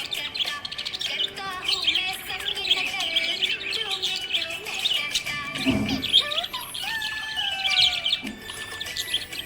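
Several budgerigars chirping and warbling continuously in quick, high chirps, with one low thump a little past halfway.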